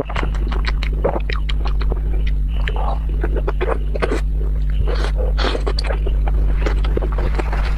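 Close-miked eating sounds: a mouthful of sauced noodles and chicken being chewed, with rapid, irregular wet smacking clicks. A steady low hum runs underneath.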